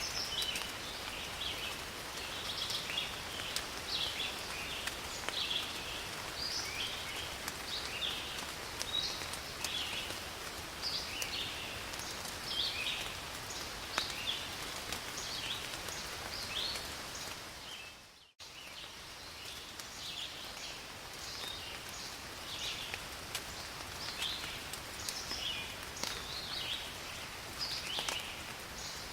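Steady rain falling in a forest, with short high animal chirps repeating about once a second throughout. A little past halfway the sound fades and cuts out for a moment, then resumes.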